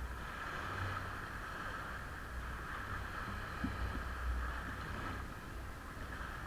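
Wind rumbling on the microphone over a steady rushing hiss.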